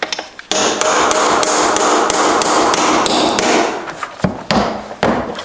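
Rapid, continuous hammering on metal for about three and a half seconds, then a few separate knocks, during work on a Subaru six-speed transmission being taken apart.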